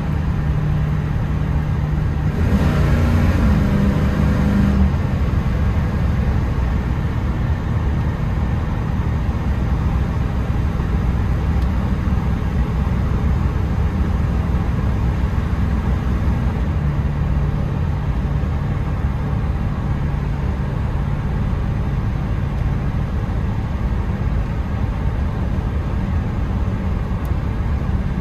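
Pickup's Blueprint 400 small-block V8 with Dynomax/Vibrant exhaust driving at cruise. About two seconds in, the engine revs up and the exhaust grows louder for a few seconds as the automatic downshifts, then it settles back to a steady low drone.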